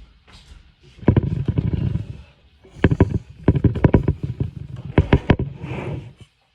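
Handling noise: bursts of rapid clicks and knocks over a low rumble, in three bouts, as wooden and metal parts are moved about close to the microphone.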